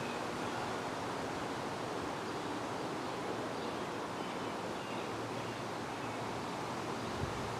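Steady wind, a constant even rush with no breaks or gusts standing out.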